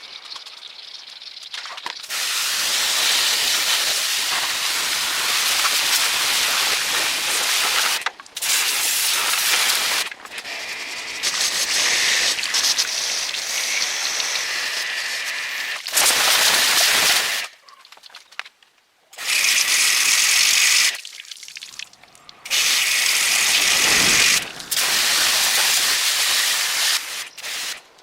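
Loud hissing spray from a pressurized nozzle, running in long bursts of a few seconds each that stop and restart about seven times.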